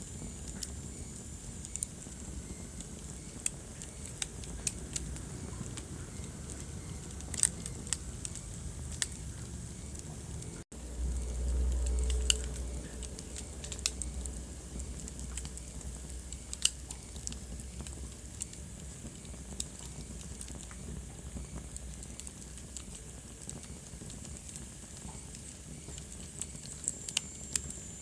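Wood fire in a fireplace crackling, with irregular sharp pops and snaps over a steady low rumble of flame. About ten seconds in the sound drops out for an instant, then the low rumble swells for a couple of seconds before settling.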